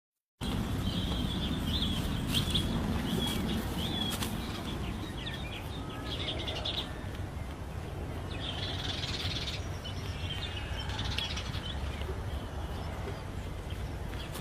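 A bird calling in bouts of rapid high chirps, with short pauses between bouts, over a steady low rumble.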